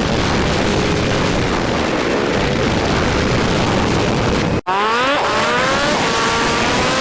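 Motorcycle engine and rushing wind from a riding motorcycle, played back sped up. After a brief cut about two-thirds through, the engine climbs in pitch twice through gear changes and then runs steady.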